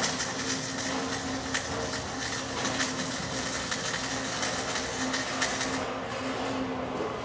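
Flux-core wire-feed arc welding: a continuous crackle of many fine clicks over a steady hum as a bead is run, thinning a little near the end.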